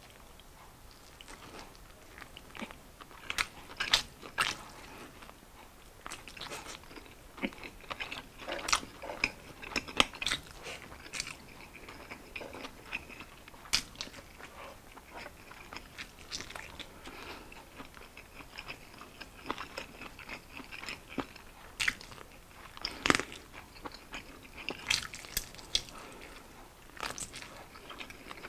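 A person chewing and biting fried chicken wings and rice eaten by hand, with irregular sharp crunches.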